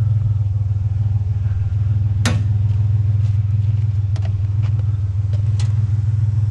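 Steady low rumble of an idling vehicle engine, with a few sharp clicks and knocks, the loudest about two seconds in.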